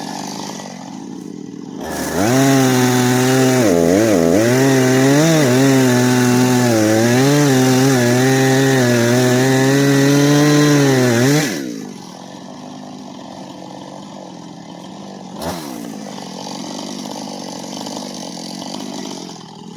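Two-stroke chainsaw idling, then held at full throttle for about nine seconds, its pitch sagging and wavering under load as it cuts, then dropping back to idle.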